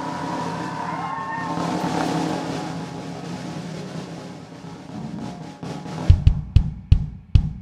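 Live band playing a jazz-fusion number: a sustained band chord rings and fades, then a drum-kit fill of about eight hits, with heavy kick-drum thumps, in the last couple of seconds.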